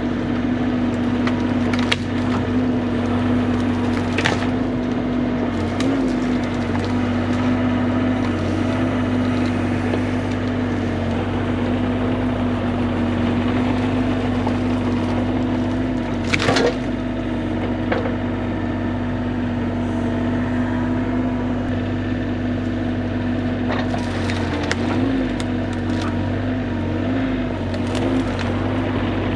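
Bobcat E35 mini excavator running steadily while wood cracks and splinters in sharp snaps as rotten spruce gives way, the loudest crack about halfway through and a cluster of smaller ones near the end.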